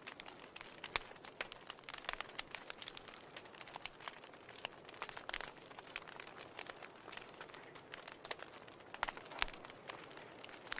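Fire in a fireplace crackling, with irregular sharp pops and snaps over a soft hiss; a few louder pops about a second in and near the end.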